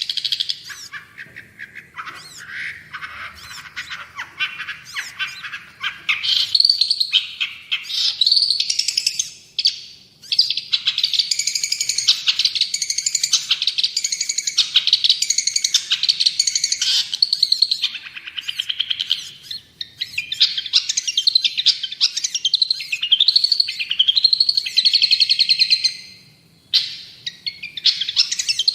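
Long-tailed shrike (cendet) singing a continuous, varied song of fast chattering phrases, with a run of repeated rising slurred notes near the end.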